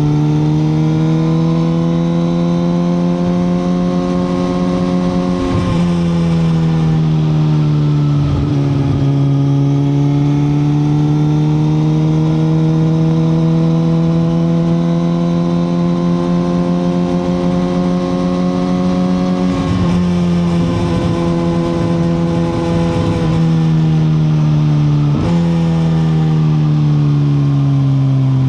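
Suzuki GSX-R1000R's inline-four engine running under way, its pitch climbing slowly and then dropping or stepping in a few short breaks, about four times, as the throttle and gears change.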